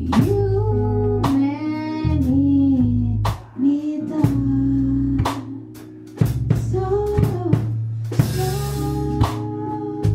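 Music from a band: a sung or lead melody over electric guitar, bass and drum kit, with regular drum hits throughout.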